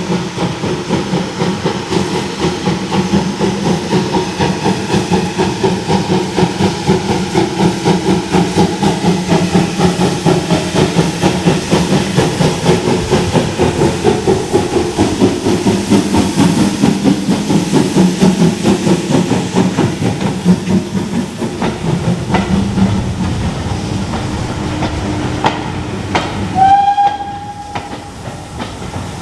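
Steam locomotive running, a dense fast beat over a low rumble, then a short single-note whistle blast near the end.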